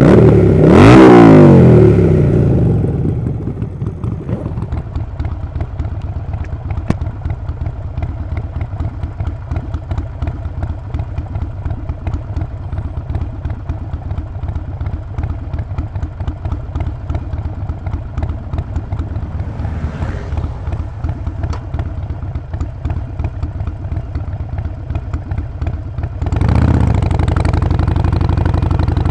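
Harley-Davidson Sportster Forty-Eight's air-cooled 1200 cc V-twin revved once, its pitch rising and falling, then idling with a steady pulsing beat. It gets louder near the end.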